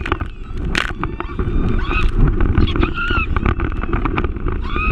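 Banana boat ride towed over the sea: a steady rumble of wind on the microphone, boat noise and water, with a few sharp knocks. High drawn-out cries from riders come twice, about two seconds in and again near the end.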